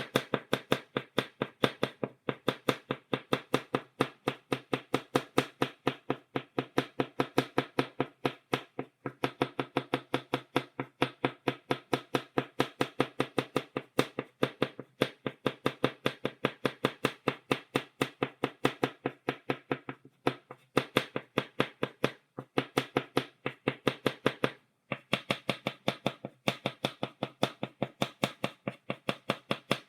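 Chalk tapped against a blackboard in a quick, even rhythm of about three to four taps a second, dotting a stippled drawing, with a few brief pauses between runs of taps.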